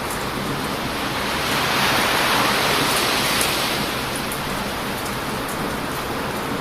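Heavy surf washing on a beach, one wave swelling louder about a second and a half in and easing off by about four seconds, with faint crackles from a wood bonfire.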